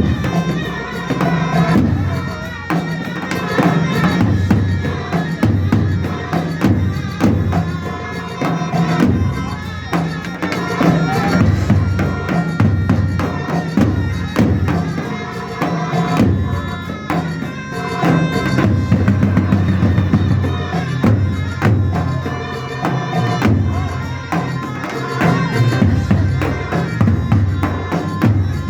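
Traditional Arab wedding folk music: a reedy, bagpipe-like wind melody over a steady drum beat.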